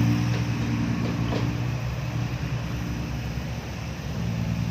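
Hino six-wheel dump truck's diesel engine running under load through a loud, free-flowing exhaust: a deep droning note that is strongest at the start, eases in the middle and builds again near the end.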